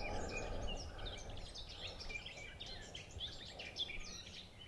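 Small birds chirping and singing in quick, short notes, several overlapping, over a low wind rumble.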